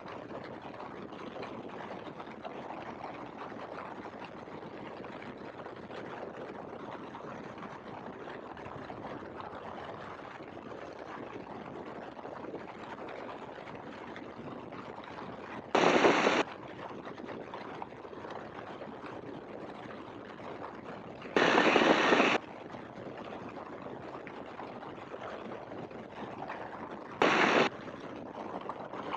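Steady, muffled noise of a Great Lakes open-cockpit biplane's engine and slipstream in flight, heard through the headset intercom feed. Three brief, louder bursts of rushing noise break in: about 16 seconds in, a longer one about 22 seconds in, and a short one near the end.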